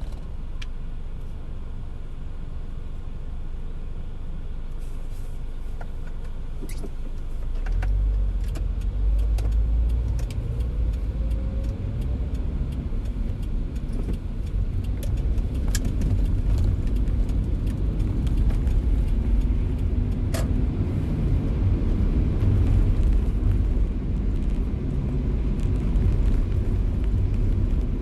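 A car driving in the rain: a steady low road rumble that gets louder about eight seconds in, with a hiss of rain and scattered sharp ticks.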